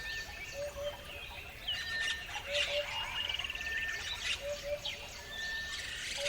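Several birds calling and chirping together: a low two-note call repeats about every two seconds, with thin whistled notes higher up and a short rapid trill near the middle.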